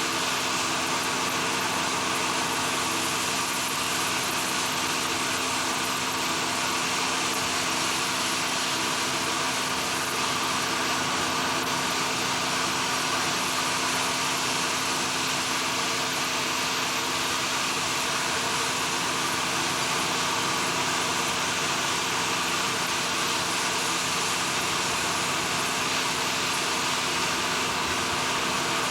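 Steady, unchanging machinery drone with a constant hum.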